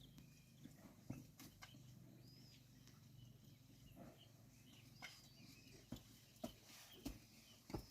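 Faint bird chirps over a low steady hum, with a few scattered soft knocks.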